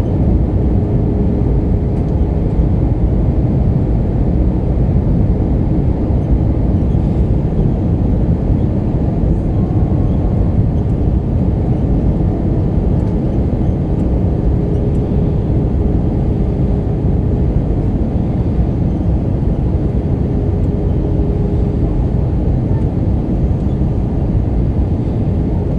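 Cabin noise inside an Airbus A319-132 on approach: the steady rumble of airflow and its IAE V2500 engines, with a faint steady hum above it.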